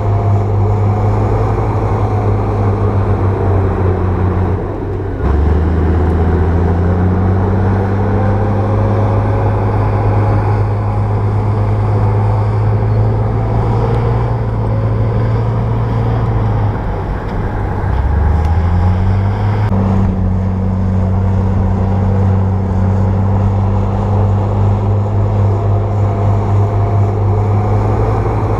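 Bulldozer's diesel engine running under load, a steady drone whose pitch drops briefly about five seconds in and again near seventeen seconds, then climbs back up.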